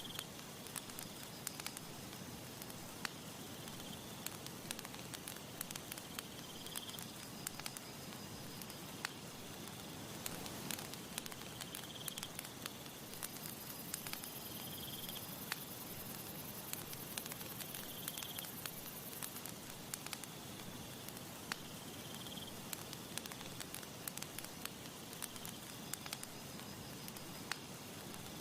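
Campfire crackling, with frequent sharp pops over a soft, steady hiss. Short high chirps recur every few seconds, and a thin high whine runs for about six seconds in the middle.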